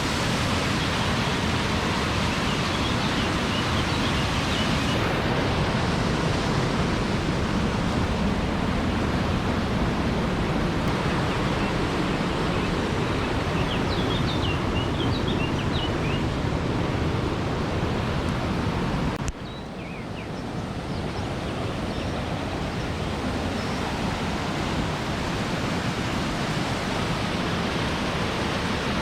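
Steady rush of a mountain waterfall and its creek cascading down the slope. About two-thirds of the way in the rush drops suddenly and then gradually builds back up.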